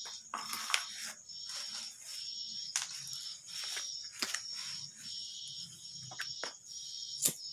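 Crickets chirping steadily in a pulsing rhythm, with a few sharp clicks and knocks from tool handling, the loudest near the end.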